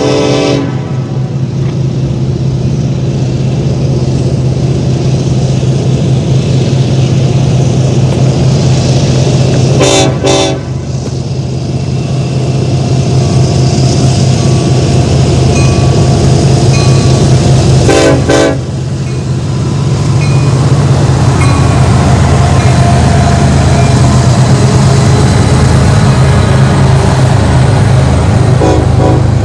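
Union Pacific SD70ACE diesel-electric locomotives, EMD two-stroke diesels, running with a loud, steady low engine drone on a manifest train. A horn blast cuts off just after the start, and short horn toots sound about ten and eighteen seconds in and again near the end. The engine sound grows louder over the last third.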